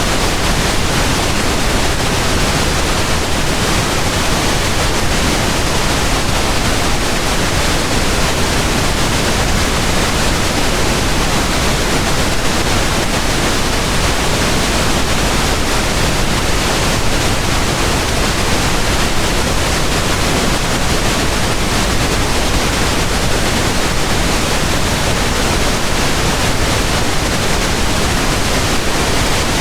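Steady pink noise: an even, unchanging hiss spread across the whole range, with no events or variation.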